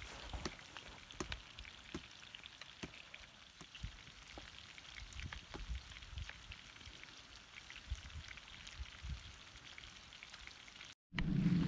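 Food sizzling in a frying pan, a steady hiss with scattered small pops. Near the end it cuts off abruptly and a louder low rumble takes over.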